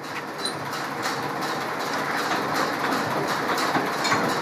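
Ford farm tractor engine running with a steady rattling clatter.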